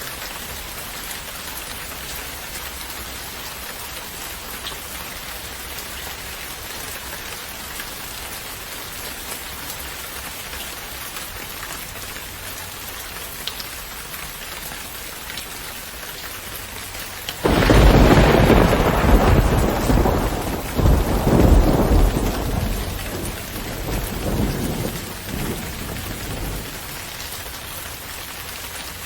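Steady rain falling. About two-thirds of the way in, a sudden loud thunderclap breaks in, rolls on in deep rumbles for several seconds and dies away into the rain.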